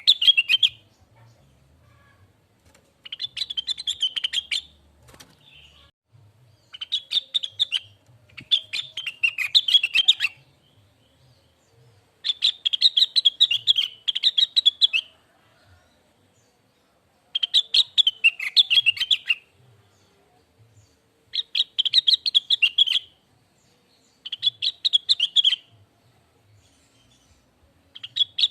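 Blue-winged leafbird (cucak wilis) singing a string of rapid twittering, chattering phrases, each one to three seconds long. Short pauses separate the phrases.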